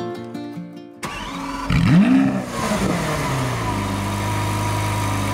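Ford Mustang inline-six engine starting up, revving once about two seconds in, then dropping back to a steady idle.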